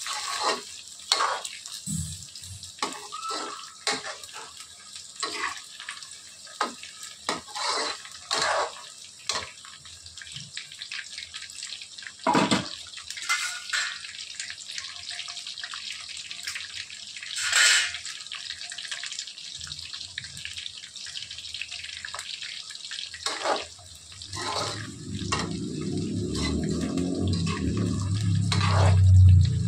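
Chicken pakoda pieces deep-frying in oil in an aluminium kadhai, sizzling with irregular sharp pops and crackles, and a slotted steel spoon scraping and turning the pieces against the pan. About three-quarters of the way through a loud low rumble joins in and grows toward the end.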